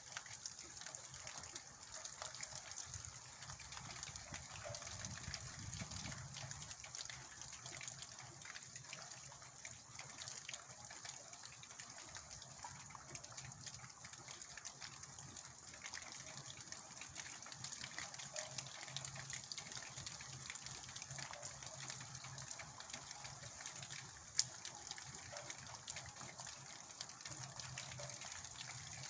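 Steady heavy rain: many fine drop ticks over a continuous rush of running water, with one sharp tick about 24 seconds in.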